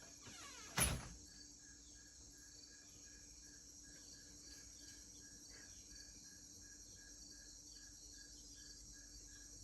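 Crickets and other insects chirping at dusk: an even, rhythmic chirp about three to four times a second over a steady high insect hiss. A single sharp click sounds just under a second in.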